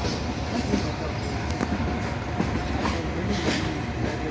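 Pakistan Railways passenger train moving out of the station: a steady rumble of the carriages with scattered clicks from the wheels over the track.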